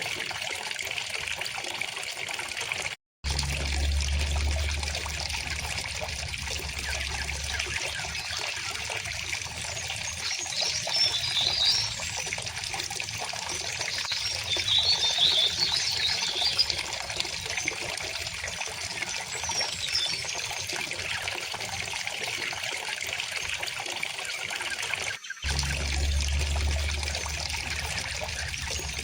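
River water flowing steadily, with birds chirping briefly about a third of the way in and again around the middle. The sound cuts out for an instant twice, each time coming back with a low rumble under the water.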